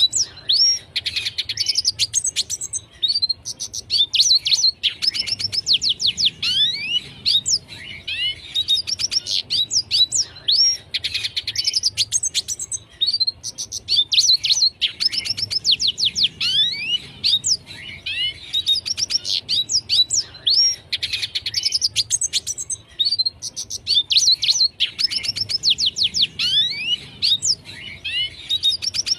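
Red siskin singing: fast twittering phrases of high, sweeping chirps, each a few seconds long, with short pauses between them.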